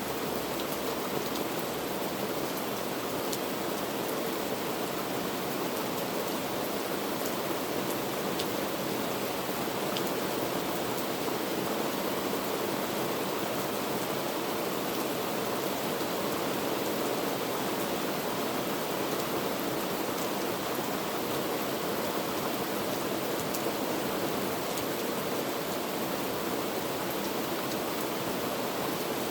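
Heavy rain falling steadily, an even hiss with scattered faint drop ticks.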